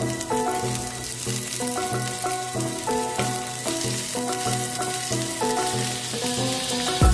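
Food frying and sizzling in a pan, a steady crackle, under instrumental background music of held melody notes.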